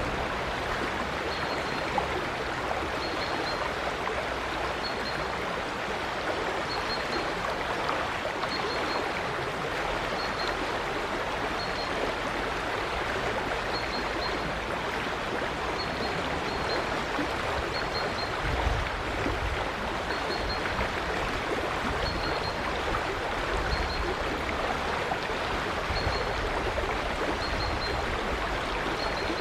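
River water flowing steadily over stones, a continuous rushing and babbling. A short, high chirp repeats every couple of seconds on top, and a few low rumbles come in during the second half.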